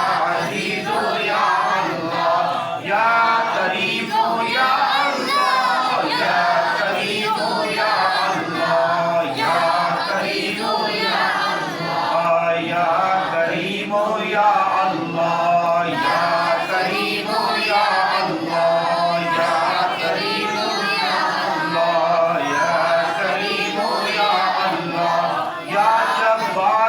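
A congregation chanting Sufi dhikr together, many voices repeating invocations of God's names in one continuous chant.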